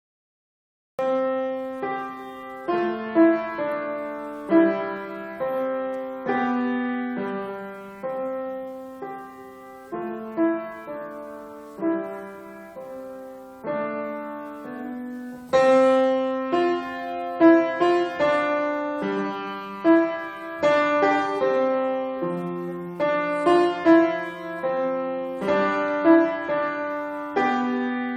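Solo piano playing a slow, gentle melody over chords, each note struck and fading. The playing begins about a second in and grows fuller and louder about halfway through.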